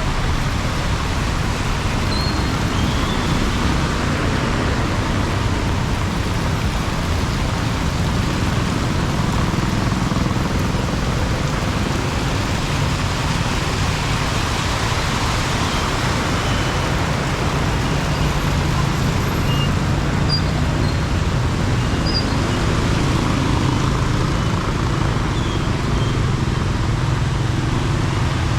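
Heavy rain falling steadily, mixed with a low rumble of road traffic.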